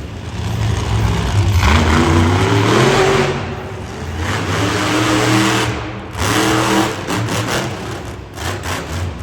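Monster truck engine revving hard. The pitch climbs and the sound swells about a second in, then it eases off and surges again around the middle, with several shorter blips of throttle near the end.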